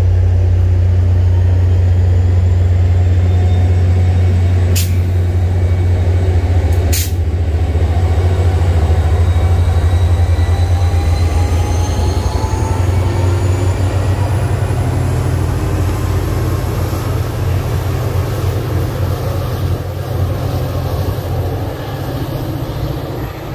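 MBTA commuter rail train rolling past, its diesel locomotive giving a loud, steady, low drone over wheel-on-rail noise, with faint rising whines. There are two sharp clicks about two seconds apart, around five and seven seconds in. Over the last ten seconds the sound slowly fades as the train moves off.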